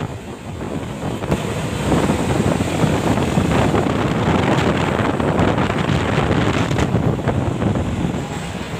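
Wind buffeting the microphone over the steady rumble of a moving vehicle, growing louder about two seconds in.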